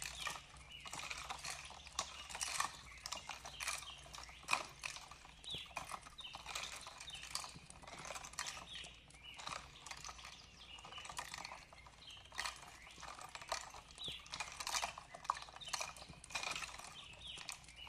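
Wood fire crackling in a fireplace: irregular sharp snaps and pops, several a second, over a soft steady background.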